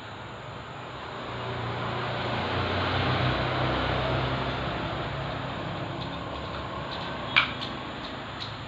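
A vehicle engine running, its noise swelling over the first few seconds and then easing off, with one sharp metallic click near the end.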